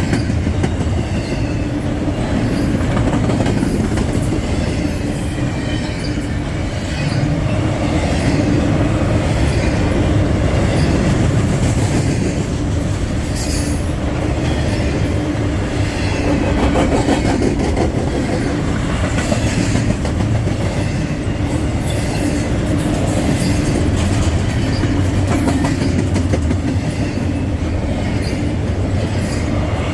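Freight train cars rolling steadily past at close range: a continuous rumble of wheels on rail with scattered clicks of wheels over rail joints and some wheel squeal.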